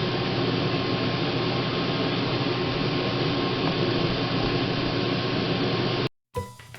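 RV rooftop air conditioner running in cool mode: a steady whir of the fan and compressor with a low hum, which the technician finds has lost its Freon (low compressor amp draw). It cuts off suddenly about six seconds in, and music begins.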